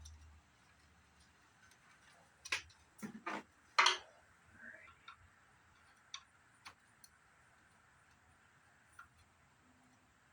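Irregular clicks and knocks from hands handling the insides of a CRT monitor being taken apart: four sharp knocks close together between about two and four seconds in, the last the loudest, then a few faint scattered ticks.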